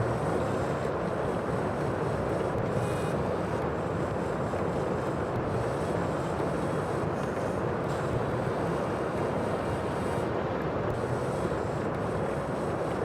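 Sea ambience: a steady, even rush of waves and wind, without separate crashes.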